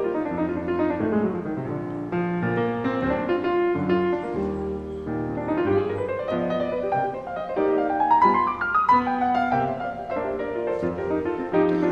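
Background piano music, a flowing melody with a run of notes that climbs about two-thirds of the way through.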